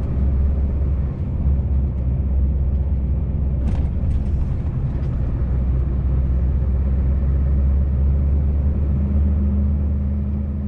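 Scania V8 truck engine running steadily with a low drone. A single brief click comes about four seconds in.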